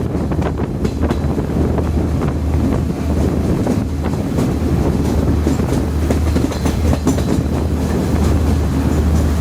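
Diesel express train running along the line, heard from inside a coach: a steady low rumble of wheels on rails with scattered short clicks.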